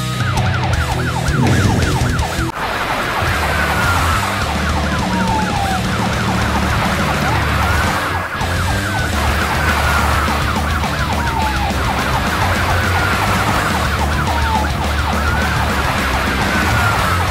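Police car sirens, one in a fast warbling yelp and another in a slower wail that rises and falls every few seconds, over background music.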